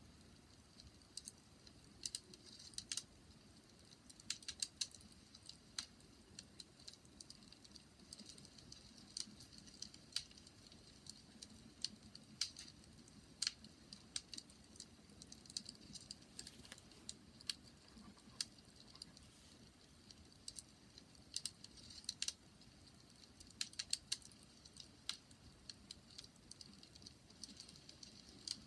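Bonfire crackling: irregular sharp snaps and pops over a soft, steady low rumble of the flames.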